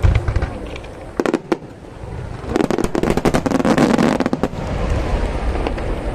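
Fireworks bursting overhead: a heavy boom at the start, a few sharp cracks just over a second in, then a dense spell of rapid crackling for about two seconds, fading into a low rumble.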